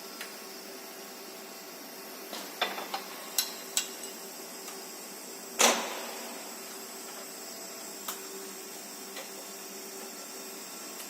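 Scattered metal clanks and clicks of hand work on a machine during a mould change, over a steady machine hum; a quick run of knocks a few seconds in, and one louder clank about halfway through.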